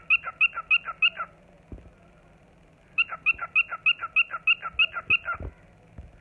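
Cockatiel singing: quick runs of short, repeated whistled notes, about three a second, in two bouts with a pause of nearly two seconds between them.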